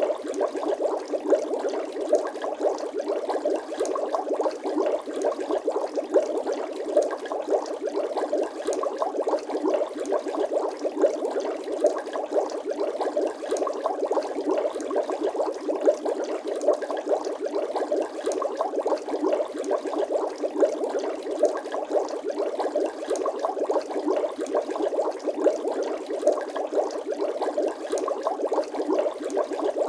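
Bubbling sound effect: a dense, unbroken stream of small watery bubble pops, steady in level throughout.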